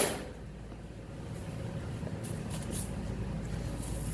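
A sharp knock right at the start, then a steady low engine rumble with a few faint clicks, growing a little louder near the end.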